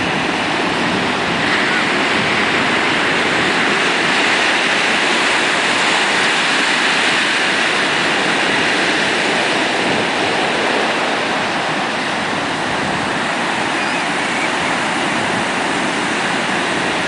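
Heavy ocean surf breaking on the beach: a steady, continuous wash of waves with no distinct single crashes.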